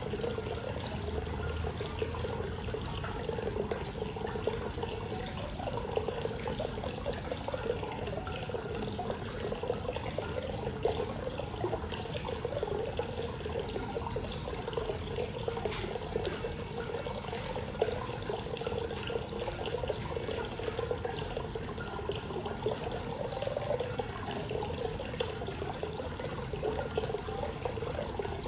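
Hot spring water pouring steadily into an outdoor bath, a continuous splashing and gurgling flow.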